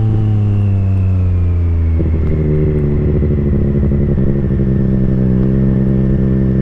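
Motorcycle engine and exhaust running, its pitch falling over the first two seconds as it slows, changing abruptly about two seconds in, then holding a steady note.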